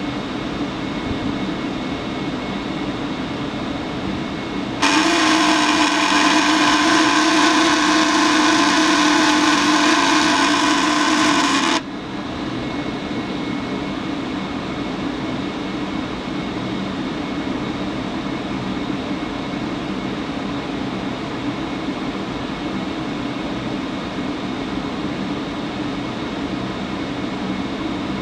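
Furnace blower fan running steadily, with a loud, rasping buzz that cuts in about five seconds in and stops abruptly about seven seconds later. The cause of the buzz is unknown.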